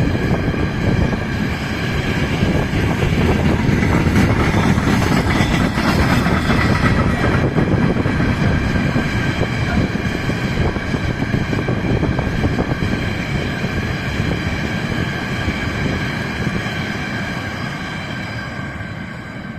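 A train passing on the line: a steady rumble with several steady high tones over it, loudest a few seconds in and dying away near the end.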